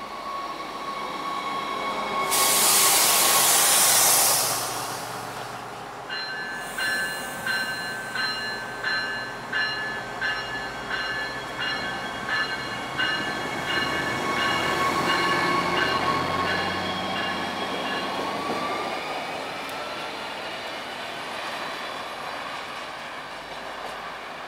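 NJ Transit River Line diesel light rail train pulling out of the station: a loud burst of air hiss about two seconds in, then a bell ringing about one and a half strokes a second for some twelve seconds. The diesel engine runs louder as the train gets under way, a rising whine comes near the end, and the sound fades as the train draws away.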